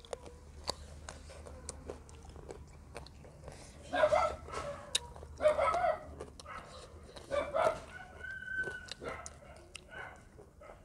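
Close-up chewing and mouth sounds of someone eating soft food by hand, with scattered small clicks. A few louder animal calls stand out in the background, about 4, 5.5 and 7.5 seconds in, and a short held high call follows soon after.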